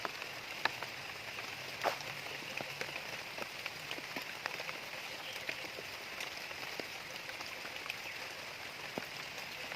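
Steady rain falling, an even hiss with scattered drops ticking and splashing, one louder tap about two seconds in.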